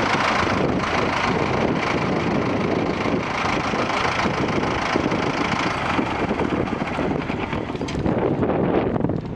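Doe Triple D twin-engined tractor's diesel engines running steadily, with wind buffeting the microphone.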